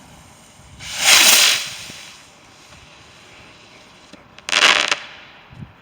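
Fireworks going off twice: a hissing burst that swells and fades about a second in, then a sharper, sudden burst near the end.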